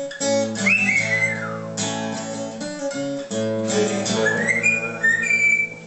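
Acoustic guitar strumming the closing chords of a song, which stop near the end. High whistled notes slide up and down over the chords twice.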